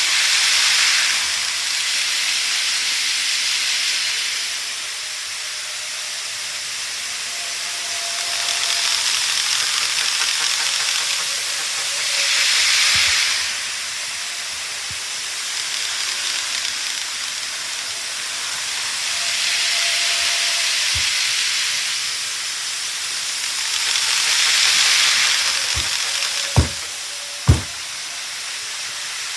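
Model train running on a layout: a steady hissing running noise that swells and fades several times, with two sharp clicks near the end.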